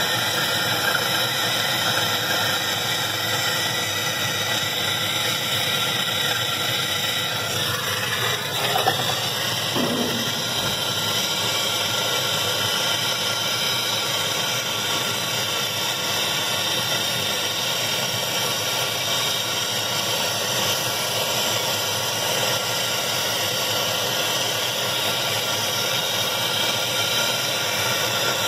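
Gas blowtorch flame hissing steadily, heating the stuck basket hub of a washing machine so the metal expands and the basket can be pulled free.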